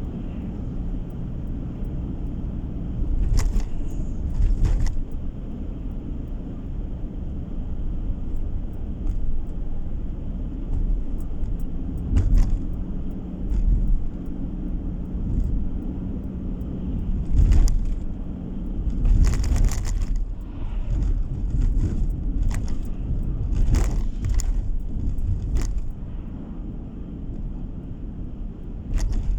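Car driving: a steady low rumble of engine and tyres heard from inside, with scattered short clicks and rattles.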